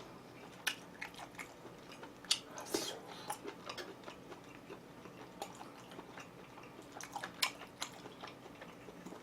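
A person chewing food close to the microphone: soft, irregular crunches and wet clicks of the mouth.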